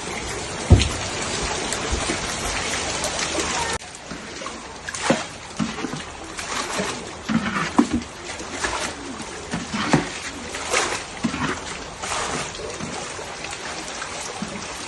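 Floodwater running with a steady rush and a thump about a second in. After a sudden change just before four seconds, the water goes on with irregular splashes.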